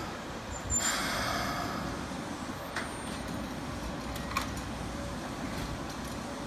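Keikyu 1500 series electric train standing at the platform just after stopping, its equipment giving a steady low rumble, with a short sharp sound about a second in and a couple of faint clicks later.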